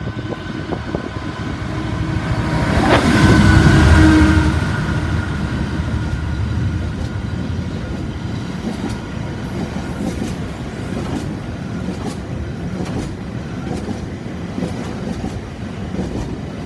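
DB Cargo Class 66 diesel freight locomotive passing slowly, its engine loudest a few seconds in, then its wagons rolling by with a steady rumble and scattered clicks of wheels over rail joints.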